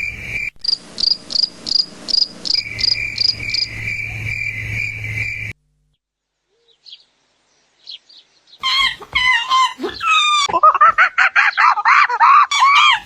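Insects calling: a steady high buzz with a second pulsing chirp about three times a second over it, cutting off suddenly about five and a half seconds in. After a few seconds of near silence come loud, rapid bird chirps with quick gliding notes.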